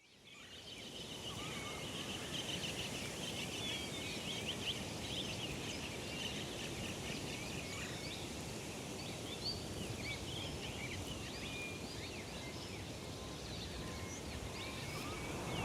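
Nature ambience: many small birds chirping and calling over a steady rushing background noise, fading in at the start.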